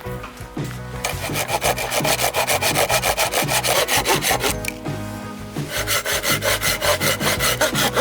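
Hand saw cutting through wood in quick, even back-and-forth strokes: two runs, with a short pause just before the middle.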